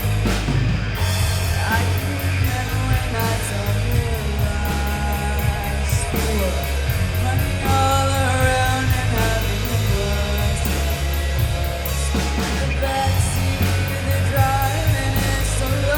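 Live rock band playing a punk-rock song: drums with steady cymbal strokes, bass and electric guitar, with a vocal line over them.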